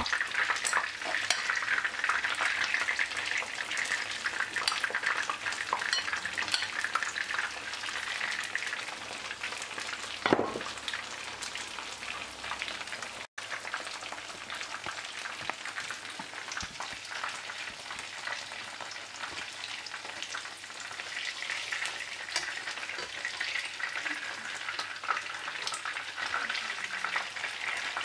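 Battered chicken fillets shallow-frying in hot oil in a pan: a steady sizzle full of small crackles and pops. A short knock about ten seconds in, and the sound cuts out for an instant a few seconds later.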